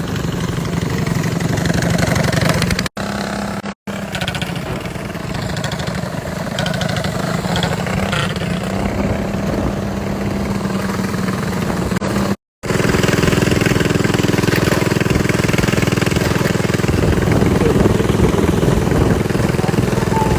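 Small mini bike engine running steadily under way, broken by three abrupt dropouts; after the last, about twelve seconds in, it is louder and fuller.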